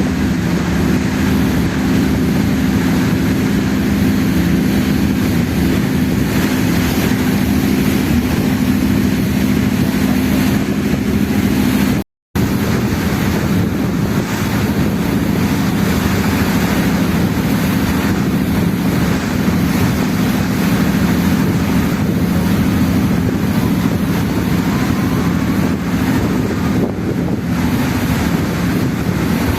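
Ferry's engine running with a steady low drone, mixed with wind buffeting the microphone and water rushing past the hull. The sound drops out completely for a split second about twelve seconds in.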